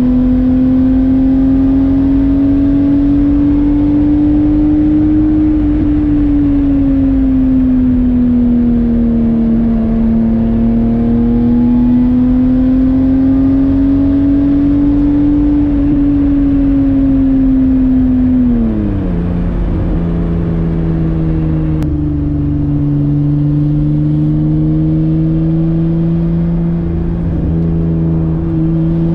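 Stroked BMW E30 325i's M20 straight-six running under throttle, heard from inside the cabin, its note rising and falling gently with the throttle. About two-thirds of the way through the revs drop sharply and the engine settles at a lower, steady note, which starts to climb again near the end.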